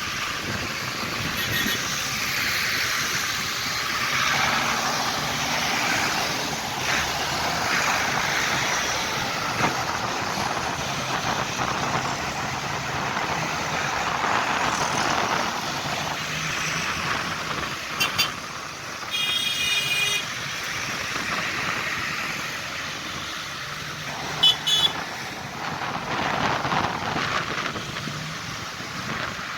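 Tractor engines running steadily on the road, with short horn toots about halfway through and again a few seconds later.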